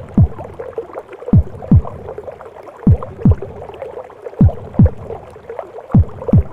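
Slow maternal heartbeat as heard in the womb: paired low thumps (lub-dub) about every second and a half, over a steady whooshing, gurgling womb-sound bed.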